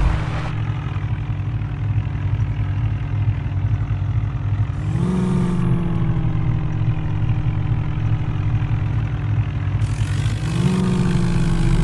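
JCB backhoe loader's diesel engine running steadily. Its pitch rises about five seconds in, then slowly sags, and it rises again near the end.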